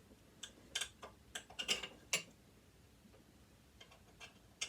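Hand tool clicking and tapping against the metal parts of a sewing machine while working at a screw: about half a dozen irregular sharp clicks, then a few fainter ones near the end.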